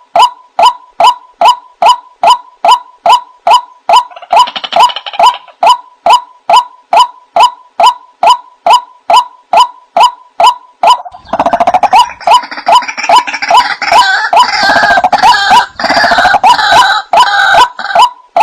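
White-breasted waterhen calls: one short, clipped note repeated very evenly, nearly three times a second. A rougher, noisier layer of sound joins the calls briefly about four seconds in, and again through most of the last third.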